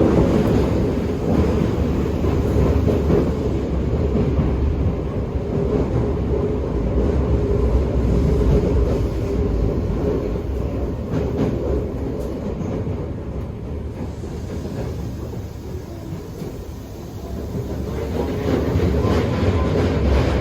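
Toei 5300 series electric train heard from inside a motored car while running along the line: steady wheel and rail noise with rail-joint clatter, and faint tones from its Mitsubishi GTO VVVF inverter and traction motors. The noise eases about three quarters of the way through, then builds again near the end with a rising tone.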